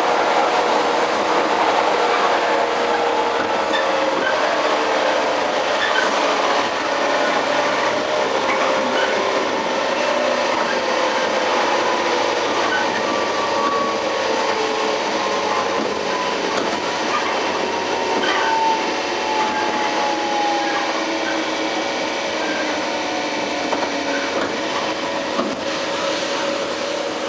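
Running sound inside a JR 115 series motor car (MoHa 114-102): the whine of the traction motors and gears falls slowly in pitch as the train slows, over the steady rumble of wheels on rail.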